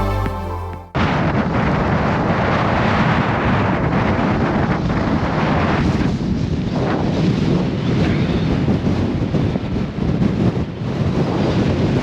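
Strong blizzard wind buffeting the microphone in gusts, starting about a second in as background music cuts off.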